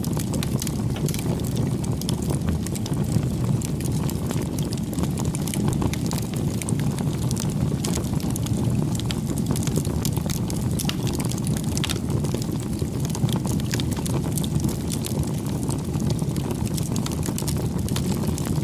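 Wood fire burning steadily: a constant low rumble of the flames with many small, sharp crackles and pops scattered throughout.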